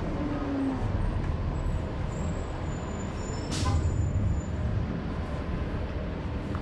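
Low, steady rumble of vehicles at street level, with one short, sharp hiss about three and a half seconds in.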